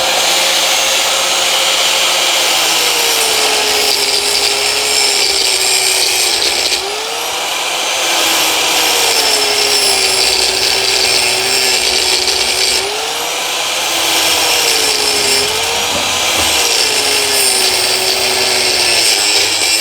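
Angle grinder with a cutting disc cutting into an old suspension bush clamped in a vise: a loud motor whine with a grinding hiss. The pitch sags each time the disc bites under load and picks back up, several times over.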